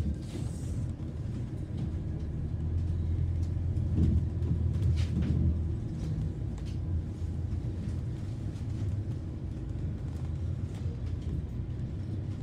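Low, steady rumble of a London bus heard from inside while it drives, swelling between about three and six seconds in, with a few faint rattles.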